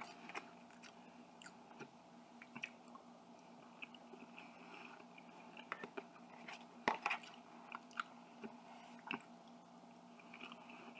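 Quiet chewing of chicken, broccoli and rice, with scattered clicks of a fork in a plastic container. The loudest clicks come about seven seconds in.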